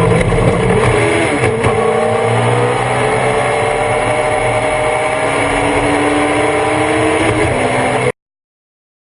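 Thunder Roadster race car engine running, heard on board, its pitch dipping briefly about a second and a half in and then drifting slowly. The sound cuts off abruptly about eight seconds in.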